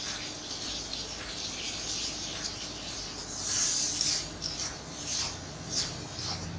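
Prawns sizzling in hot oil in an aluminium kadai. From about three and a half seconds in, a spatula stirs them, scraping against the pan in several short strokes.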